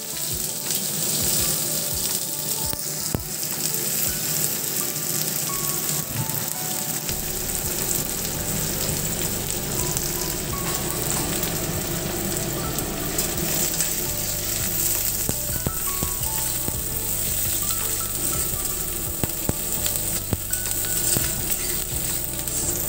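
Chopped onions frying in hot oil with cumin seeds in a kadai, a steady sizzle after they are tipped into the pan at the start.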